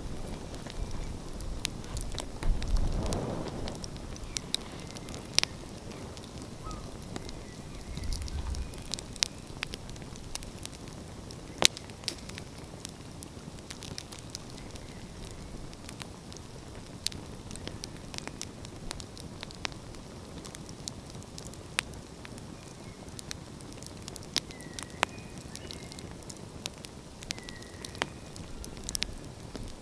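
Outdoor wood fire crackling, with sharp pops at irregular intervals over a low steady hiss. A brief louder rush about three seconds in.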